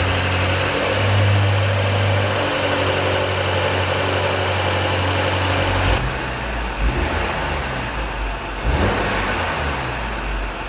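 2024 Range Rover's turbocharged 4.4-litre V8 running at idle; about six seconds in, the sound turns deeper and duller.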